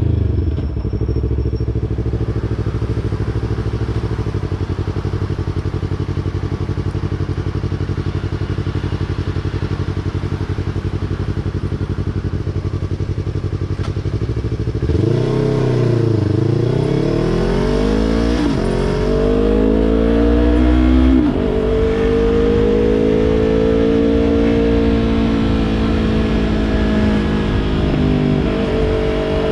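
2020 Yamaha YZF-R3 parallel-twin engine through a Yoshimura exhaust, ticking over steadily at low revs for about the first half. About halfway in it revs up and pulls away, climbing and dropping in pitch through several quick gear changes, then settles into a steady cruise.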